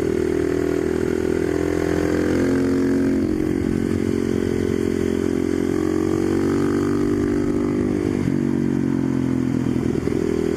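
Husqvarna 510SM supermoto's single-cylinder four-stroke engine running steadily, its pitch drifting slightly up and down.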